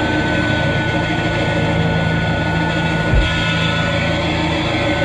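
Amplified band noise from distorted guitars and amps: a dense droning wash with a high feedback whine held for several seconds. The low drone drops out about three seconds in with a low thump.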